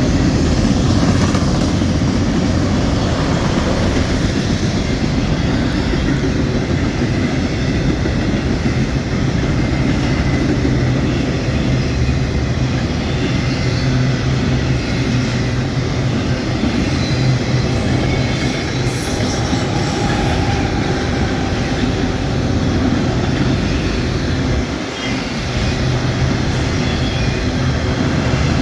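Freight train rolling past: a steady rumble of wheels on rail and diesel locomotive engine hum, with wind buffeting the microphone.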